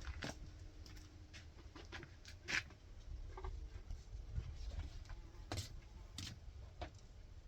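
Scattered light taps and clicks at irregular intervals, a sharper one about two and a half seconds in, over a low steady rumble.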